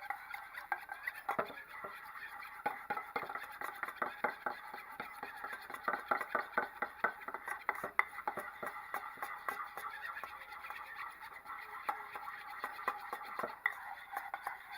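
A spoon stirring sour cream, lime juice and salt into crema in a mixing bowl, clicking and scraping against the bowl in quick, uneven strokes, stopping about 13 seconds in.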